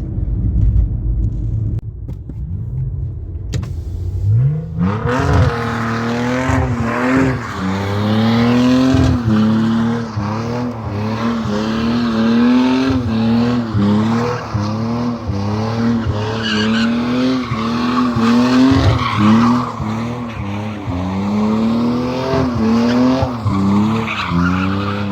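BMW E46 328i's 2.8-litre straight-six running low at first, then about four seconds in revving up and held high, its revs rising and falling over and over, while the rear tyres squeal and skid in a drift spin on the welded differential.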